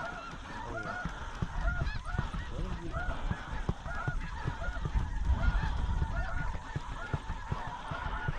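Snow geese calling, many at once: a dense, continuous chorus of short, repeated yelping honks.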